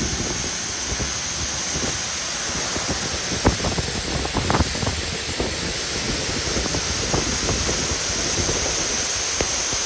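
Waterfall rushing: a steady, even hiss of falling water, with a few short knocks about a third and halfway through.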